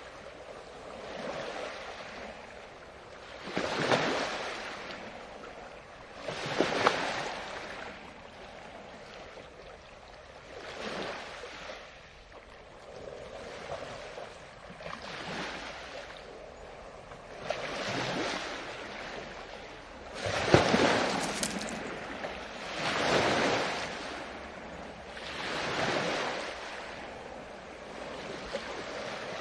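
Ocean waves breaking one after another, each a rush of surf that swells and fades every two to four seconds, the loudest about two-thirds of the way in.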